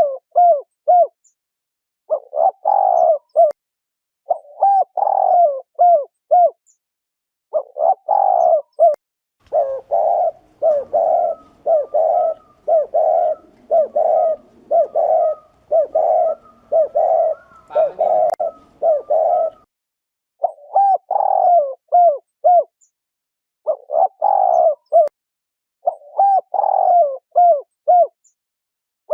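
Spotted dove giving its 'gù' bowing coo: short phrases of three or four low coos, repeated every couple of seconds. About ten seconds in, the coos run on unbroken and quicker for about ten seconds, with fainter higher calls behind them, before the spaced phrases return.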